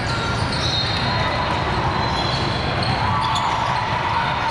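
Basketball game in a big hall: the ball bouncing on the court, sneakers squeaking and players' voices, all in a steady, echoing din.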